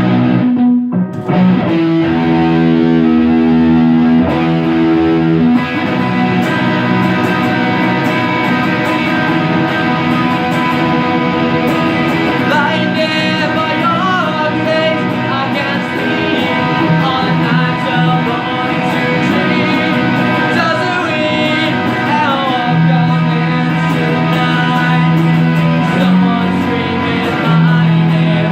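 Guitar music playing a song: held chords at first, then a fuller, busier part from about six seconds in.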